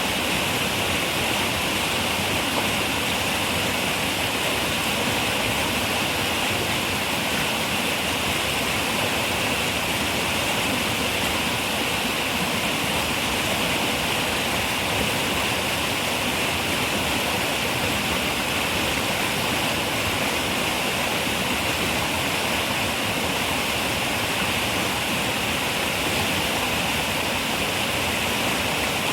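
Steady rush of a flowing river, even and unbroken, with a bright hiss strongest in the upper range.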